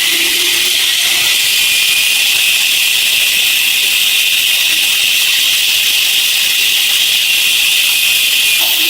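A loud, steady hiss that holds unchanged throughout, with its sharpest part high in pitch.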